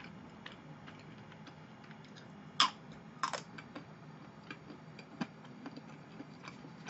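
Quiet closed-mouth chewing of chocolate cake: faint, irregular wet mouth clicks, with a few sharper smacks around the middle.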